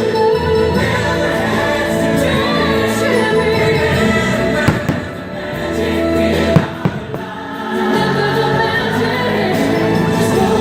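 Choral holiday music from a fireworks show soundtrack, with a few sharp firework bangs about halfway through, two of them close together.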